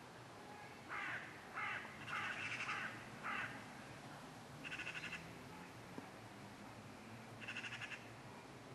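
A bird giving harsh, rasping crow-like calls: a quick run of short calls in the first few seconds, then one about five seconds in and one more near the end.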